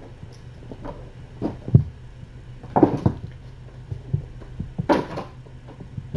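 Kittens playing and scuffling: a few irregular knocks and short rustling thumps against surfaces in a small room, over a steady low hum.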